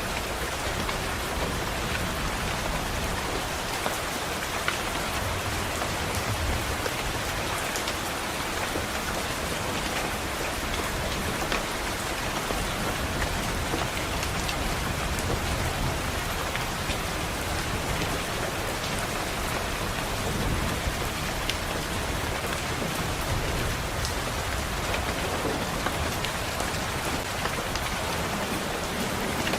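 Steady rain falling on a window, with scattered sharp drop taps and a few low rumbles of distant thunder swelling and fading.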